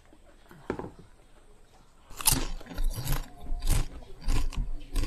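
Close-miked eating: a short sip of sauce about a second in, then from about two seconds in a regular run of loud crunchy chews of raw vegetables, roughly one every 0.7 seconds.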